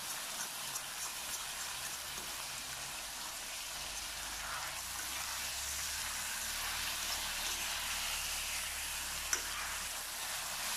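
Chicken pieces with onion and garlic sizzling in a metal wok as they are stirred with a metal spoon, the spoon clicking against the pan now and then, once more sharply near the end.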